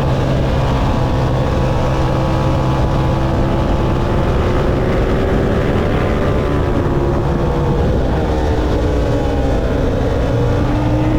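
Motorcycle engine running hard on a race track, holding a steady note whose pitch sags in the second half and climbs again near the end.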